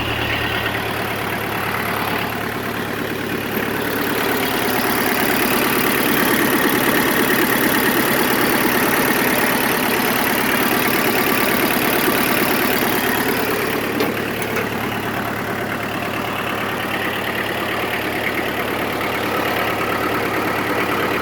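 Mitsubishi MT2501D compact tractor's four-cylinder diesel engine running smoothly just after starting. It gets somewhat louder through the middle stretch, then settles back.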